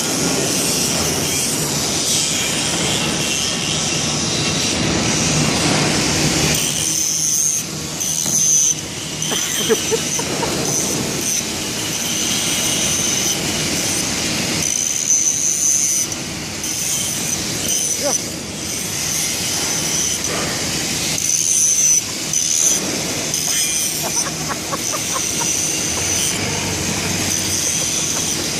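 Steady, loud industrial machinery noise with a high-pitched metallic squeal that comes and goes every few seconds, and a few sharp clicks.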